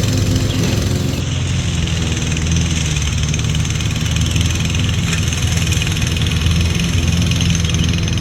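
Toro self-propelled gas push lawnmower's small engine running steadily while mowing tall grass.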